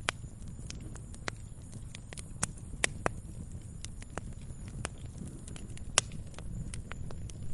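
Wood fire crackling in a fireplace: irregular sharp pops and snaps over a low, steady rumble. A few pops stand out, the loudest about six seconds in.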